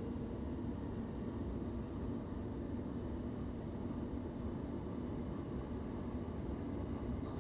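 Steady running noise of a suburban electric passenger train in motion, heard from inside the carriage, with a faint low hum.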